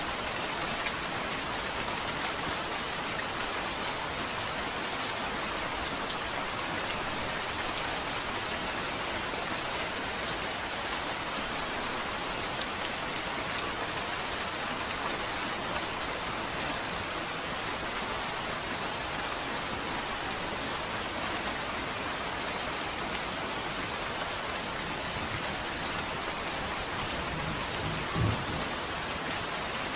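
Steady rain falling, an even hiss of many drops. A brief low rumble of thunder swells up near the end.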